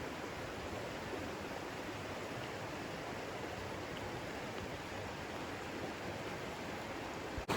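Loyalsock Creek's flowing water rushing steadily, an even hiss with no separate splashes; it cuts off abruptly near the end.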